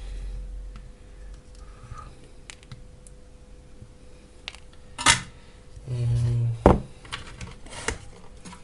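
Small tools and wire parts being handled on a workbench: scattered light ticks and clinks, with two sharp clicks about five and nearly seven seconds in, and a brief low hum just before the second click.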